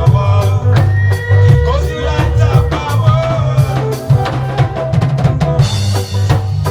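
Lovers rock reggae music with a heavy bass line and drum kit keeping a steady beat, with sustained keyboard or guitar tones above.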